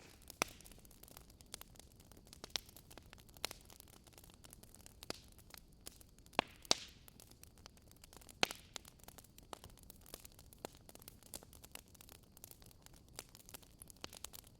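Wood fire crackling in a fireplace: irregular sharp pops and snaps over a low steady hiss, with a few louder pops, two of them close together about six and a half seconds in.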